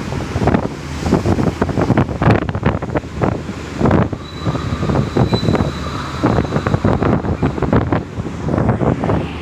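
Strong gusty wind buffeting the microphone, with uneven rushes and thumps. A faint thin whistling tone sounds for a couple of seconds around the middle.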